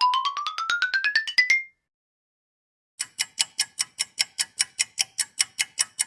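Cartoon ascending sound effect: a quick run of pulses climbing steadily in pitch, ending about a second and a half in. After a short gap, a clock-tick sound effect starts: rapid, even ticks at about six a second.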